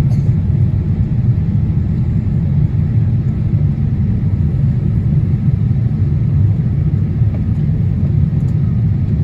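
Steady low rumble of jet engines and rushing air inside a Boeing 787-8 Dreamliner's cabin during the climb after takeoff.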